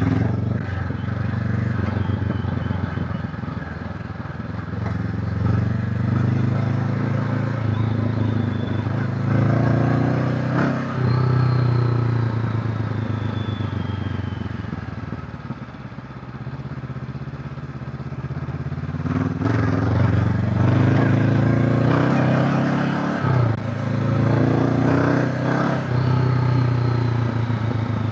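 Honda CB500X's parallel-twin engine running under load on a ride, its revs repeatedly rising and easing off, with short breaks in the sound about eleven seconds in and again later on.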